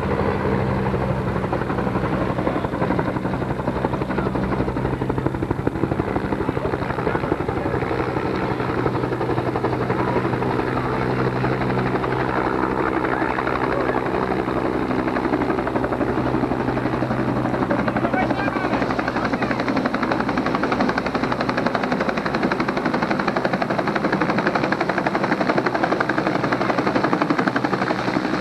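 Military helicopter running steadily: continuous turbine and rotor noise whose engine tones shift in pitch partway through.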